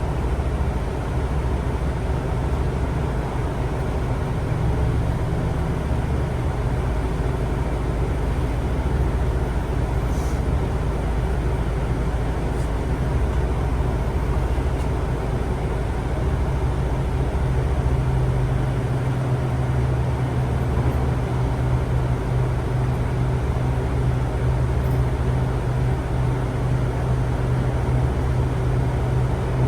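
Steady running noise of a moving vehicle heard from on board, a continuous low rumble with a low hum that grows stronger about halfway through.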